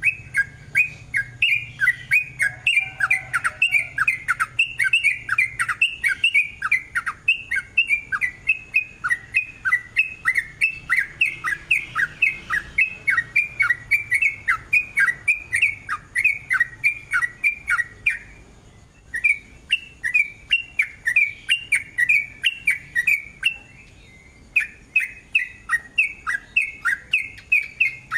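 Yellow-vented bulbul (trucukan) singing a long, rapid run of short, clear chirping notes, about four a second. The run breaks off briefly twice, about 18 and 24 seconds in.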